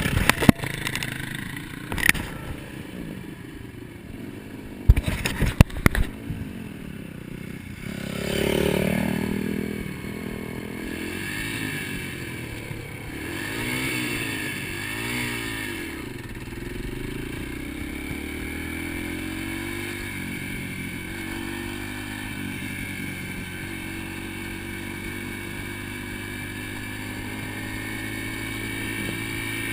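Dirt bike engine revving up and down several times, then running at a steady pitch. A few sharp knocks sound in the first six seconds.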